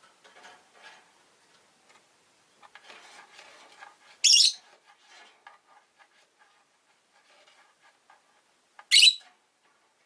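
Rosy-faced lovebirds: faint twittering and small clicks, broken twice by a short, loud, shrill chirp, about four seconds in and again about nine seconds in.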